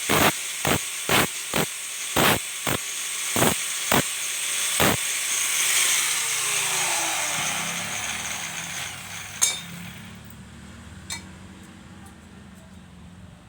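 Sharp strikes on steel, a couple a second, over a steady hiss for about five seconds; then a motor spins down with a falling pitch, leaving a low steady hum and two faint clicks.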